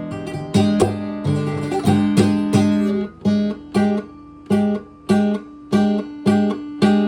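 Music: an acoustic guitar strumming chords. After about three seconds the strums turn into short, cut-off chords, about one every half second.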